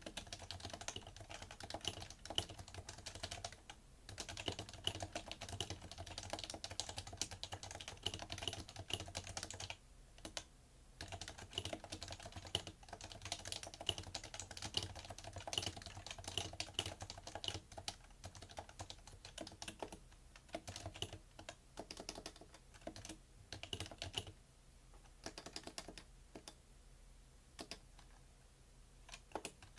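Continuous fast typing on a PFU Happy Hacking Keyboard Professional2 with Topre capacitive switches, many keystrokes a second. There is a brief pause about ten seconds in, and the strokes thin out near the end.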